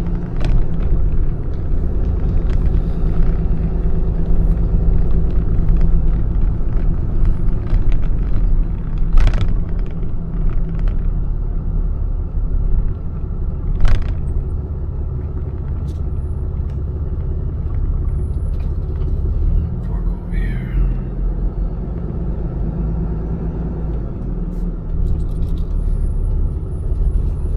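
Steady low rumble of a motor vehicle running, with a few sharp clicks and a brief squeak partway through.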